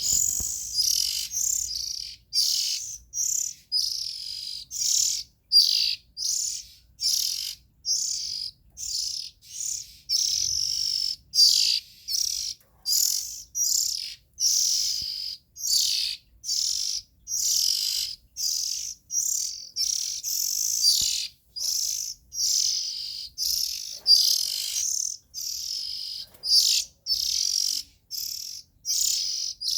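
Young Oriental magpie-robin singing: an unbroken run of short, high-pitched chirping phrases, about one and a half a second.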